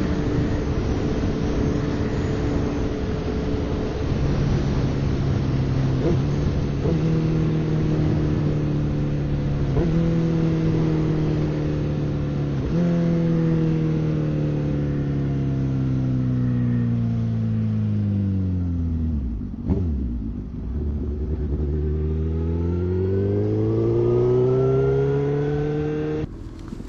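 Suzuki GSX-R1000 inline-four engine heard from the rider: the bike slows with a series of downshifts, revs jumping at each shift and falling away between them, nearly stops about two-thirds in, then pulls away with revs rising steadily.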